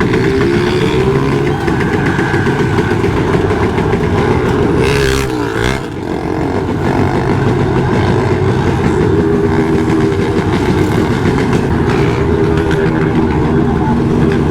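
Motorcycle engine running, with the revs rising and falling several times. There is a brief rushing noise about five seconds in.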